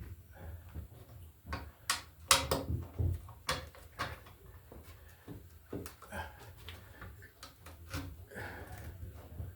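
Irregular knocks, clicks and rustles of NM (Romex) cable being handled and fed into a plastic electrical box, with the loudest cluster of knocks about two seconds in.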